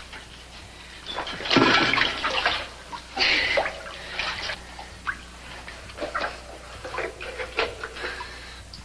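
Water splashing and sloshing in irregular bursts, the loudest about a second and a half in, as if someone were wading into water in a tunnel.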